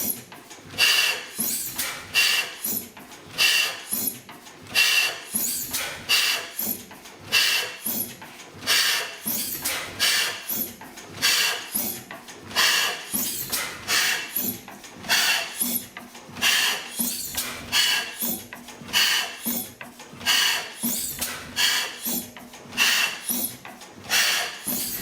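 National Type S 32 hp single-cylinder stationary gas engine running, giving an even rhythm of exhaust beats somewhat under two a second, some beats louder than others.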